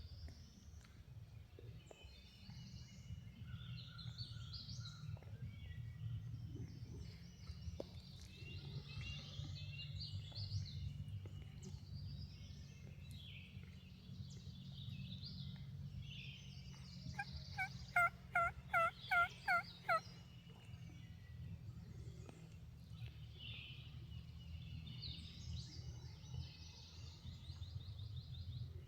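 A run of about seven turkey yelps, a little under three a second, lasting about two seconds past the middle. They are the loudest sound, over songbirds singing and a steady low rumble.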